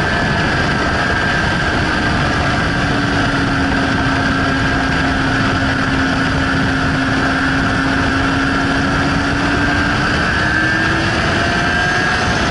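Suzuki GSR 600's inline-four engine running at steady high revs on track, its note sagging slightly and climbing again near the end, under heavy wind noise over the microphone at speed.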